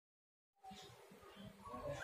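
Silence for about half a second, then a faint outdoor background with a few short, faint bird chirps, growing slightly louder near the end.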